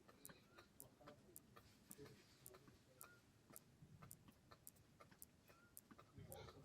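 Faint, regular ticking at about two ticks a second, like a clock, with a brief low sound near the end.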